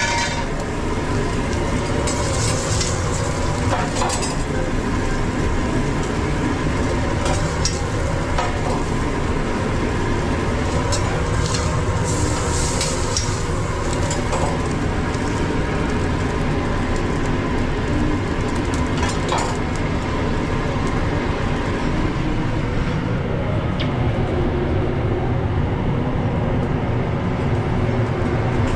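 Food truck kitchen noise: a loud, steady mechanical rumble, with food sizzling on the griddle in hazy flares and a few sharp clicks of utensils.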